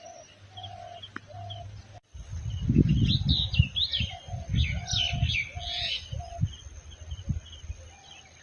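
Small birds chirping, with a dove cooing in short repeated notes. From about two seconds in, heavy uneven low rumble, like wind buffeting the microphone, sits under the chirps.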